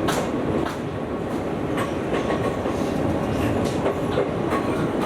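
Izuhakone Railway 7000 series electric train running, heard from the driver's cab: a steady rumble of wheels on rail, with irregular clicks as the wheels cross rail joints.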